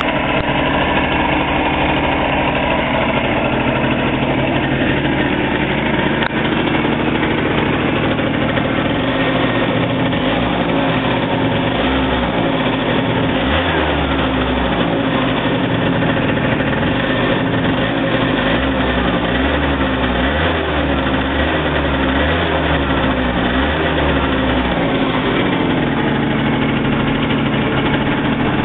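Rebuilt Yamaha Bw's 50cc two-stroke scooter engine running at idle. Its speed wavers up and down through the middle stretch.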